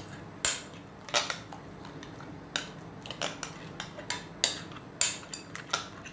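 Utensil clinking and scraping against a bowl in irregular strokes, about two a second, while stirring a thick spice-and-tomato-paste marinade.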